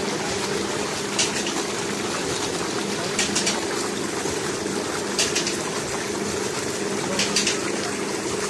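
Steady gush of pumped water, with a steady hum under it and a short high rattle about every two seconds.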